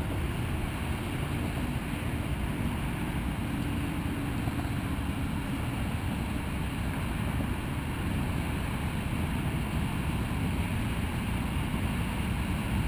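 Steady low rumbling wind noise on the microphone.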